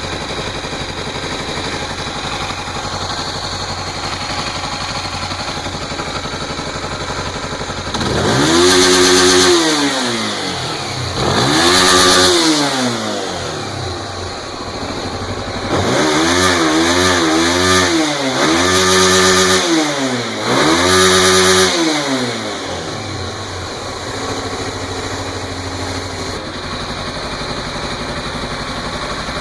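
Honda CB 300 single-cylinder motorcycle engine, fitted with a fuel controller set to a rich mixture, idling steadily, then revved: two separate revs about 8 and 11 seconds in, a run of quick throttle blips from about 16 to 22 seconds, then settling back to idle.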